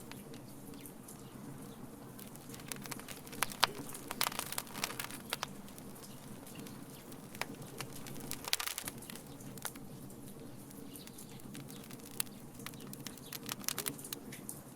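Wood fire in a fire pit crackling, with scattered sharp pops in clusters, the loudest a few seconds in, over a steady low background.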